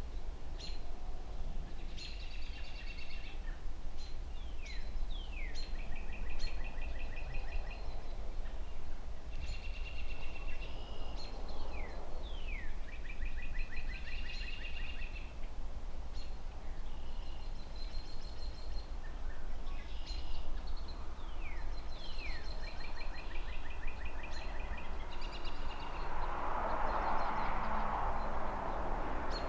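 A songbird singing the same short phrase over and over every few seconds, each a quick downward slur followed by a rapid trill, over a steady low rumble of distant traffic. Near the end a brief swell of noise rises beneath the song.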